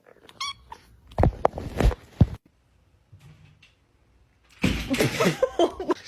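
A cat meows briefly. Several sharp knocks and thumps follow, and near the end comes a longer noisy stretch with wavering cries.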